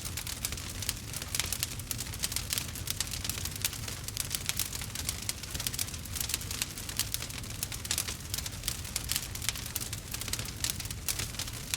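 Wood fire crackling and popping continuously: a dense run of sharp little snaps over a low steady rumble.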